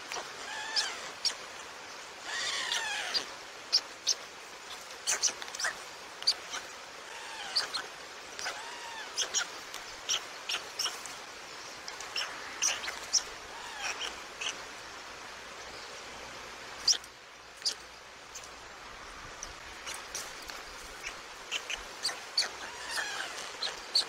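Birds chirping again and again: short sharp chirps and a few arching calls, over a steady background hiss.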